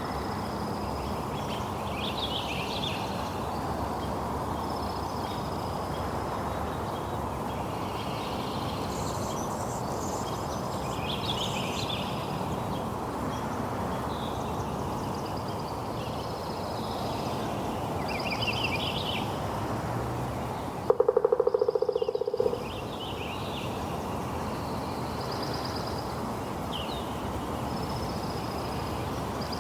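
Steady rushing noise of rain, with birds chirping and trilling again and again over it. About 21 seconds in, a louder steady tone cuts in for about a second and a half.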